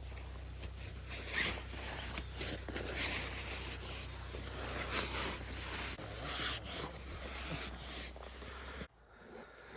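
Irregular rustling and rubbing sounds over a steady low hum, cutting off abruptly near the end.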